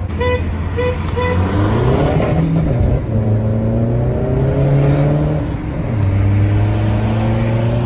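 A car engine, heard from inside the cabin, accelerating flat out through the gears. The revs climb, fall at a gearshift about two and a half seconds in, climb again, fall at another shift about five and a half seconds in, then hold steady. Three short beeps sound in the first second and a half.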